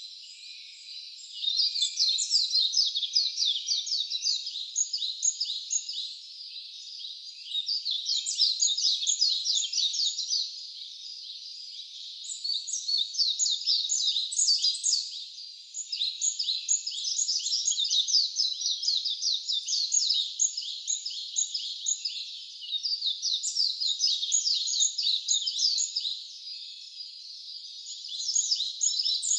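Wild birds singing: dense, rapid high chirps in loud bouts of several seconds with short quieter spells between them.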